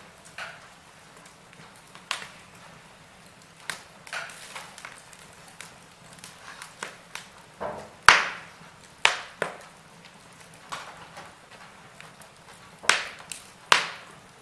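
Wood fire crackling and popping in a fireplace: irregular sharp pops over a soft hiss, with the loudest crack about halfway through and two more near the end.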